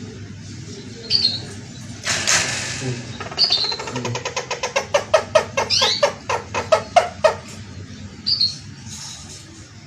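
Caged takur (barbet) making a fast run of sharp clicking notes, about five a second, for several seconds, with a few short chirps before and after.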